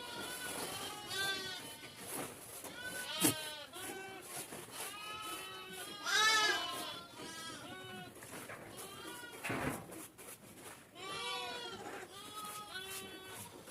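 A herd of sheep and goats bleating, many short calls overlapping one after another. A sharp click comes about three seconds in, and one loud bleat comes about six seconds in.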